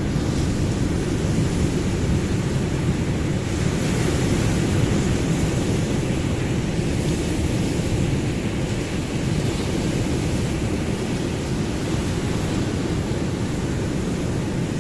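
Ocean surf: a steady, low wash of waves, with the hiss rising briefly about four seconds in.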